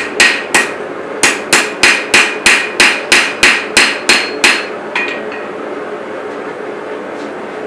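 Hand hammer striking a chef's knife blank on an anvil, ringing blows at about three a second, with a short pause after the first two. The blows stop about four and a half seconds in, and one lighter strike follows. A steady rushing noise runs underneath and is left alone after the hammering stops.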